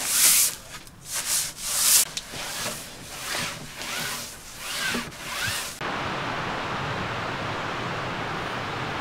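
Repeated uneven rubbing and rustling strokes, with a few short squeaks, for about six seconds, then an abrupt change to a steady, even rushing noise.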